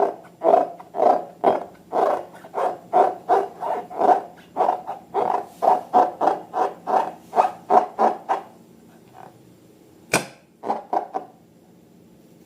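Slime squished and kneaded by hand in quick repeated squelches, about three to four a second. The squelches stop about eight seconds in, and a single sharp snap follows a couple of seconds later.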